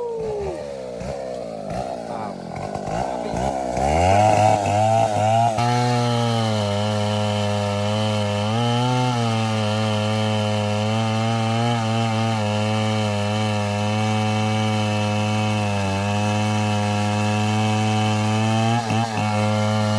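STIHL MS 070 chainsaw's large single-cylinder two-stroke engine revving unevenly for a few seconds, then held at a steady high speed while cutting into wood, its pitch dipping slightly now and then under load.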